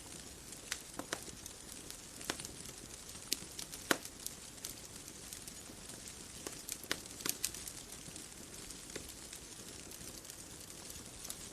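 Wood fire crackling: irregular sharp pops and snaps over a soft steady hiss, the loudest pop about four seconds in.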